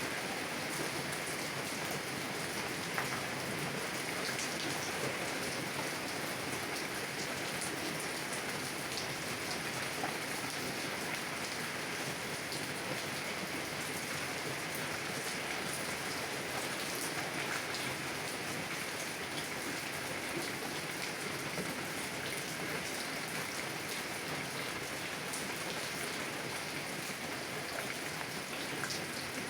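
Steady heavy rain drumming on a car's window and body, heard from inside the car: a constant hiss with scattered sharper drop ticks.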